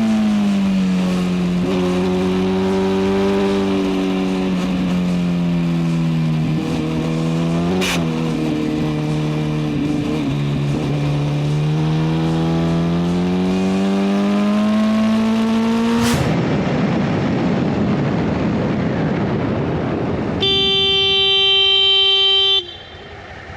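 Motorcycle engine running through a corner, its pitch dipping and holding low before rising again, with one brief sharp scrape or knock about eight seconds in. After a sudden change to a steady rush of road and wind noise, a car horn sounds once, held for about two seconds, near the end.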